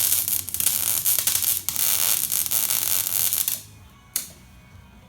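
Electric arc welder crackling and sizzling as a bead is laid, stopping about three and a half seconds in, followed by a brief second burst of arc a moment later.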